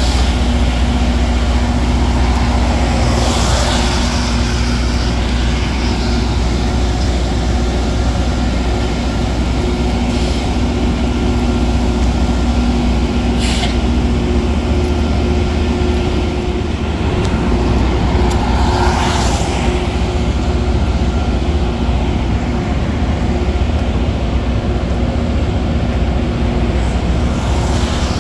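Loram rail grinder train running past with a steady, loud low rumble and an even hum from its engines. A road car whooshes by about three seconds in and again near nineteen seconds.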